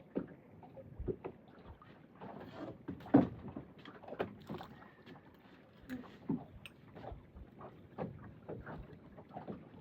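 Water lapping and slapping against the hull of a small fishing boat, with irregular knocks and taps, the loudest about three seconds in.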